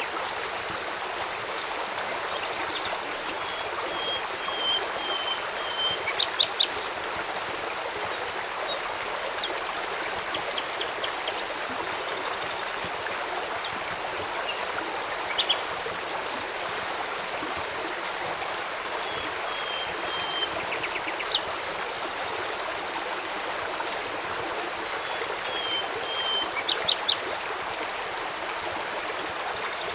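Steady rush of a flowing river, with short bird calls and chirps now and then. A few brief clusters of sharp clicks stand out above the water.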